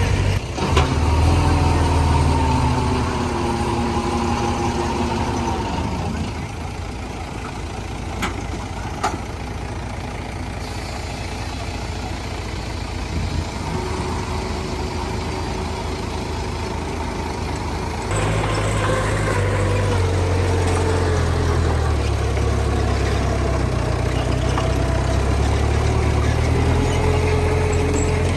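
Heavy diesel engines of earthmoving machines running, their pitch sliding up and down as they work. The sound drops somewhat about 6 seconds in and jumps louder about 18 seconds in.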